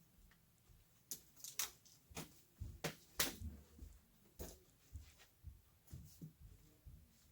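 Irregular light knocks and clicks, about a dozen, some with a dull low thump, heard in a small room.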